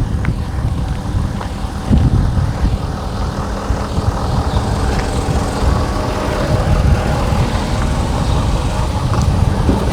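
A vehicle's engine running, a steady low rumble with faint steady tones above it.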